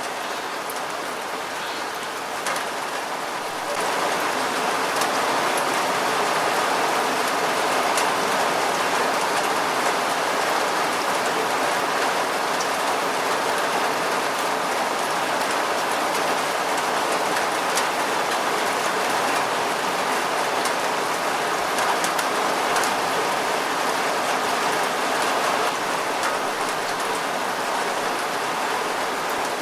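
Steady rain falling, a constant hiss with scattered sharp drop ticks, growing a little louder about four seconds in.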